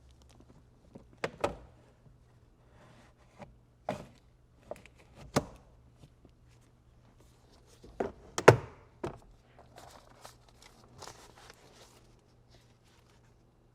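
Knocks and thunks of a new cabin air filter being fitted into its housing behind a car's glove compartment: a scattered series of single knocks, a louder cluster of three about eight seconds in, then light rustling.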